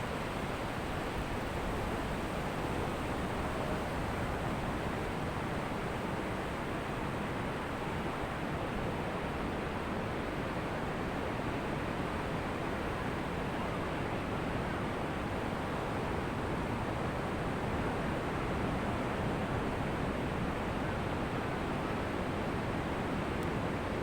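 Ocean surf on a beach: waves washing in as a steady, even rush, with no single breaker standing out.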